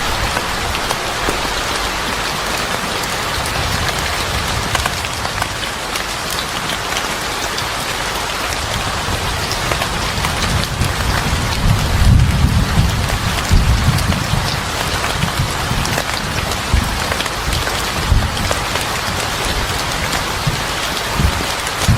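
Steady heavy rain pattering on a surface, with low rumbling swells about halfway through.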